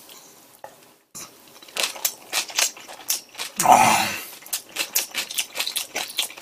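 Close-miked chewing of a mouthful of crispy fried pork cutlet: a quick, uneven run of crunchy clicks, with one louder breathy mouth sound a little past the middle.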